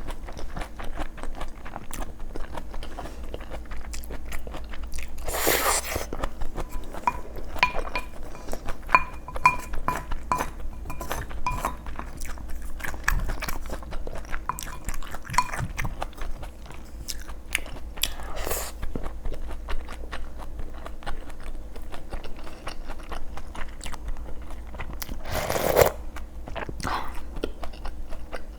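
A person chewing and crunching food close to the microphone, mukbang-style, with many small bites and mouth clicks. A run of short ringing clinks comes about a third of the way in, and two louder, noisier moments come about 5 s in and near the end.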